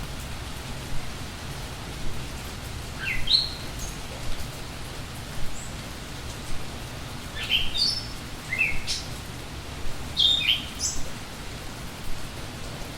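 Songbirds chirping in short bursts of quick rising notes, three times, over steady rain falling and dripping on surfaces.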